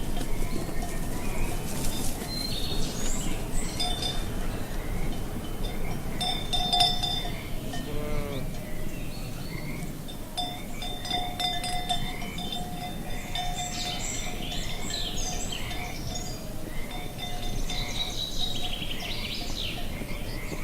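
Livestock bells ringing on and off over a steady low wind, with many short bird chirps throughout.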